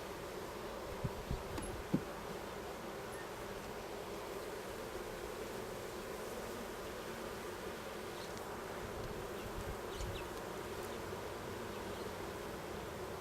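Honey bees buzzing steadily around an opened hive, a continuous hum, with a few light knocks about one and two seconds in as the frames are handled.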